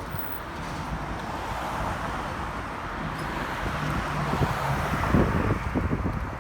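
City street traffic with wind buffeting the microphone; a vehicle's noise swells as it passes, loudest about five seconds in.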